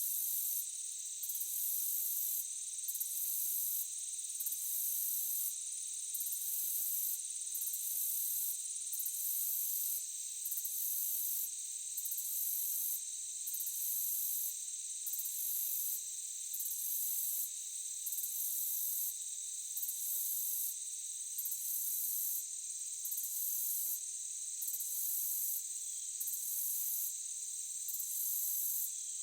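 Insect chorus of crickets: a steady high-pitched shrilling, with a still higher trill that pulses on and off about every second and a half.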